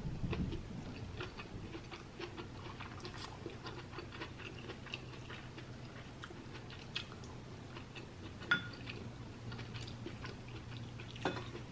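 Close-miked chewing of a spoonful of food, with soft wet mouth clicks and smacks, and a couple of sharper clicks later on.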